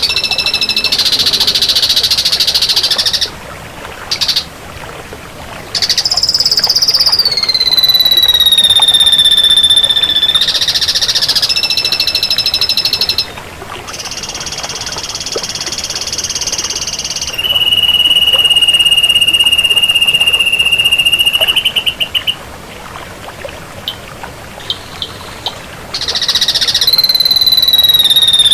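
Ashy drongo singing: long, loud whistled notes alternating with buzzy rapid trills. One note glides down in pitch, and a long steady whistle breaks off in a stutter, with two brief lulls between phrases.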